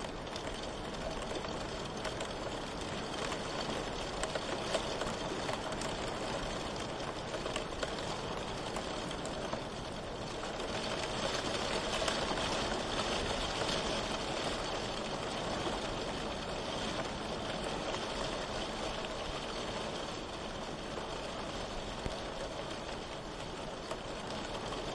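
Steady rain falling, growing a little heavier for a few seconds in the middle.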